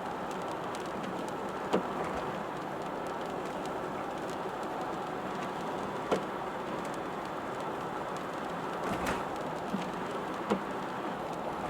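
Steady rain noise from a car driving in the rain, with four sharp single ticks scattered through it.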